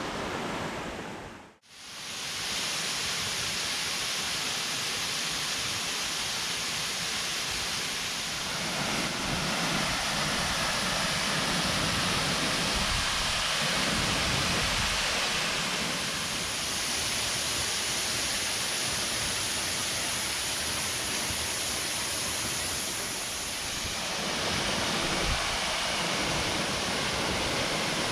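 Waterfall on the Luka stream: a steady, even rush of falling water. The sound cuts out briefly about a second and a half in, then resumes.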